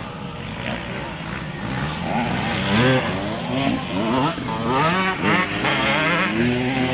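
Several motocross bikes racing past, their engines revving up and down over one another as riders accelerate and shift.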